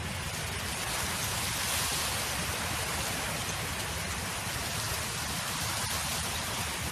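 Wind blowing: a steady rushing noise that builds a little about a second in and holds there.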